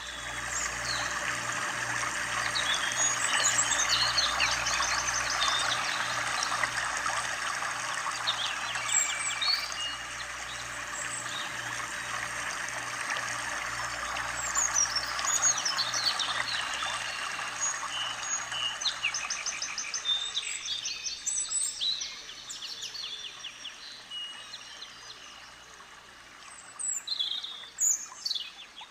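Several birds chirping and trilling over the steady rush of a river; the rush drops away about twenty seconds in, leaving the bird calls.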